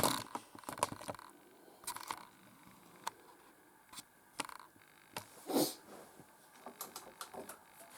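Irregular clicks and knocks with a short scrape about halfway through, from hands working the controls of a Bosch Series 6 heat pump tumble dryer while a cycle is being selected.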